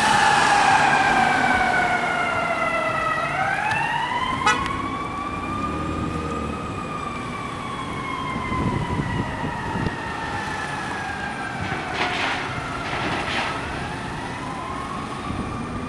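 Emergency vehicle siren in a slow wail, its pitch sliding down and back up over several seconds at a time, growing gradually fainter as it moves away. A sharp click sounds about four and a half seconds in.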